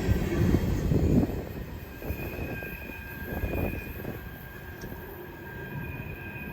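Train rolling past with its wheels squealing on the rail, loud at first and dying away after about a second and a half into a lower, steady rumble.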